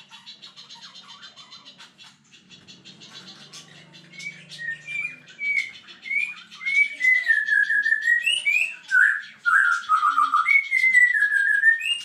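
A songbird singing a loud run of varied, slurred whistled notes that glide up and down, starting about four seconds in. Under it, and alone at first, a fast high ticking chatter.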